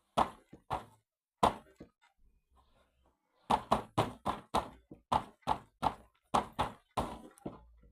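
A set of punches landing on a striking trainer: three separate knocks in the first two seconds, then, after a short pause, a fast flurry of about a dozen strikes at three or four a second.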